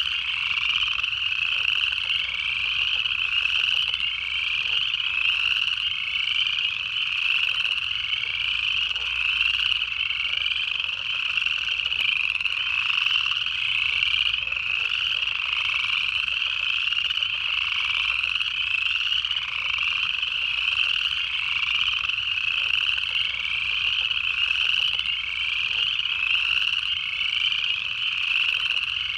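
Dense chorus of upland chorus frogs: overlapping ascending trills, each rising in pitch, repeating continuously with no break.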